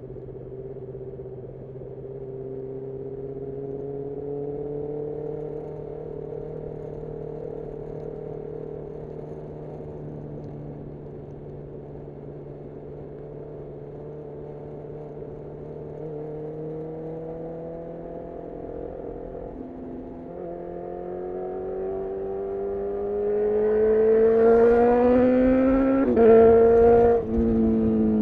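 Honda CB1000R's inline-four engine, breathing through a full-system Black Widow exhaust, running at steady cruising revs. About two-thirds in it accelerates, rising in pitch and getting louder, with two quick gear changes near the end.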